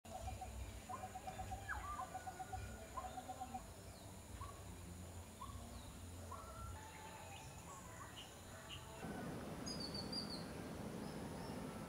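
Birds chirping and calling in outdoor ambience, with a rapid trill in the first few seconds and a thin steady high whine behind them. About nine seconds in, a louder even hiss takes over the background.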